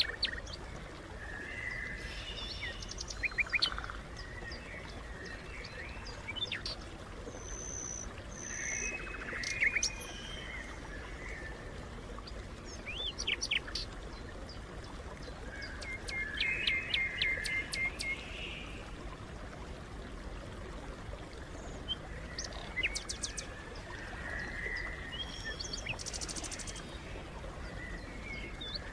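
Songbirds chirping and calling on and off: short calls, quick gliding notes and a few rapid trills. Under them runs a steady low rumble.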